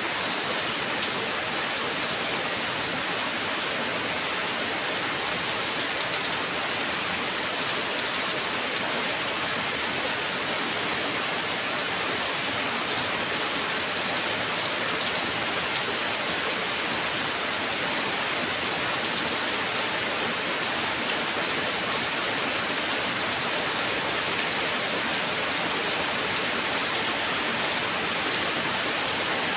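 Heavy rain falling steadily, a dense even hiss of drops with faint scattered patters on a hard surface.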